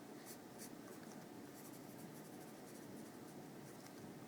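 Faint scratching of a pen writing, a few short strokes against a low room hiss.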